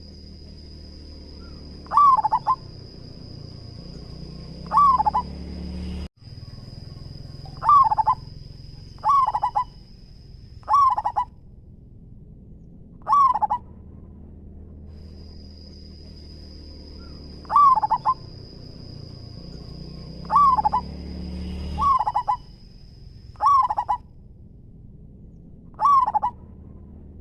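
Zebra dove (perkutut) cooing: short, loud phrases of rapid coos, about eleven of them, repeating every couple of seconds. A thin, steady high whine comes and goes behind the calls.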